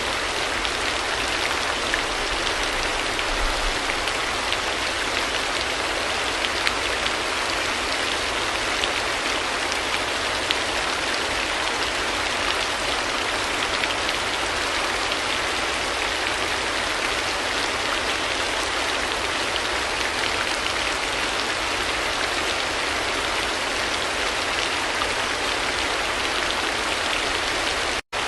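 Steady rain falling, a dense even patter with small individual drops ticking through it. It cuts out for an instant near the end.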